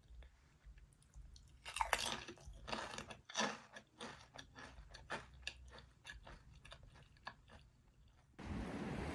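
A person chewing crunchy food close to the microphone, with irregular crunching bites for several seconds. Near the end it cuts to a steady rush of wind noise.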